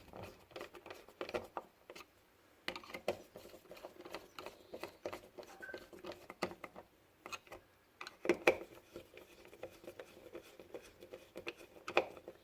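Small Phillips screwdriver driving screws back into a Runcam 2 camera's plastic case: faint, irregular clicks and scratches of the tool and the case being handled, with a couple of louder clicks about eight seconds in and near the end.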